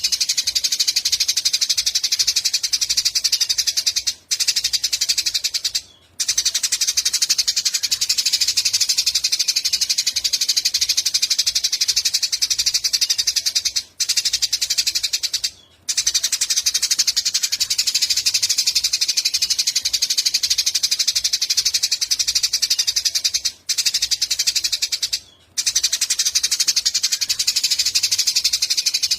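Small songbird singing a fast, unbroken high-pitched chatter of rapid repeated notes, broken twice about every ten seconds by short pauses.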